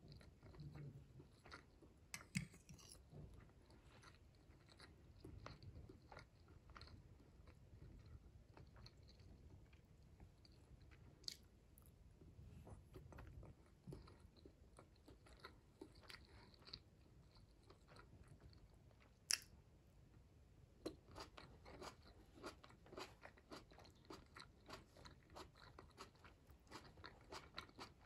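Quiet, close-miked eating sounds: a person biting and chewing garlic shrimp, with soft wet mouth clicks throughout and two sharper clicks, one about two seconds in and one around the two-thirds mark. The chewing clicks come thicker and faster over the last seven seconds.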